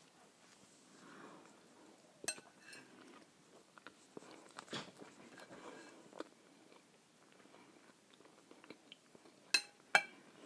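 Close-up chewing of an open sandwich of seeded bread with mackerel in tomato sauce, with a few sharp clicks of a knife and fork against a ceramic plate; two clinks close together near the end are the loudest.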